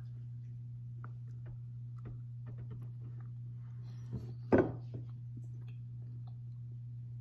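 A person biting into and chewing a soft, dense pistachio sweet coated in powdered sugar, with faint scattered mouth clicks over a steady low hum. A brief louder sound comes about four and a half seconds in.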